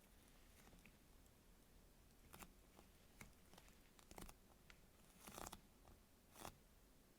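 A squishy toy being squeezed and handled close up: faint, soft crackling and rustling in about five separate short squeezes, the longest about five seconds in.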